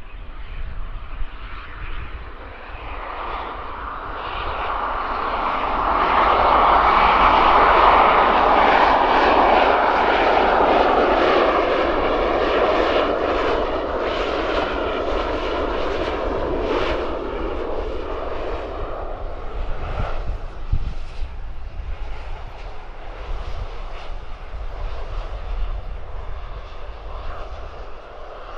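Jet aircraft passing by on the runway, its engine noise swelling over a few seconds to a peak, then slowly fading away.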